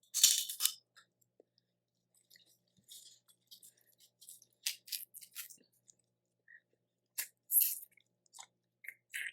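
Seafood shells being cracked and picked apart by hand during eating, heard as short bursts of crackling and clicking with quiet gaps, the loudest crack just after the start and another near the end.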